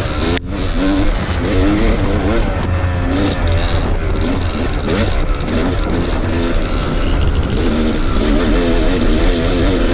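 Two-stroke dirt bike engines revving up and down as the bikes ride along a trail, the pitch rising and falling again and again with the throttle.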